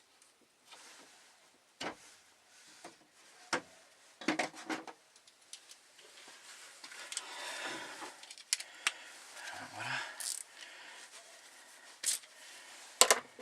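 Small ratchet and 8 mm socket being worked on the screws of an in-tank fuel pump's mounting flange: scattered sharp metallic clicks and clinks with short scraping and rustling between them.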